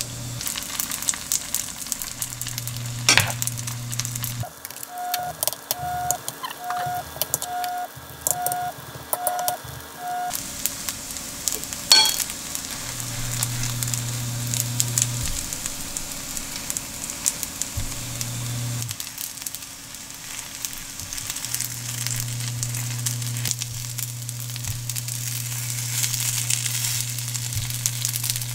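Zucchini-and-glass-noodle egg patties sizzling in oil in a nonstick frying pan over low heat, with two sharp knocks of the spatulas against the pan, about 3 and 12 seconds in.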